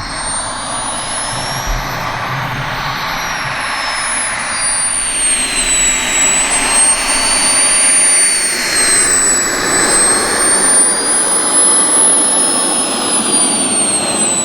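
Turbine engine of a radio-controlled model jet in flight, a steady jet roar with a high whine that slowly rises and falls in pitch as it flies past and turns.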